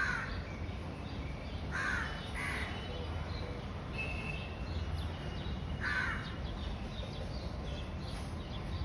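A bird giving short, harsh calls: one at the start, a pair about two seconds in, and another near six seconds, with faint higher chirps of other birds and a steady low background noise.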